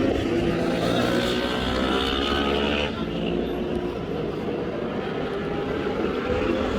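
Racing superbike engine heard on board at high revs. The revs fall for about three seconds, the level dips briefly, and then the revs climb steadily again as the bike accelerates.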